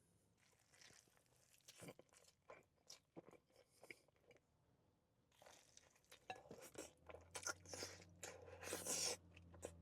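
Faint close-up sounds of someone biting into and chewing a pastrami burger: scattered soft clicks at first, then moister crackling chewing from about halfway through.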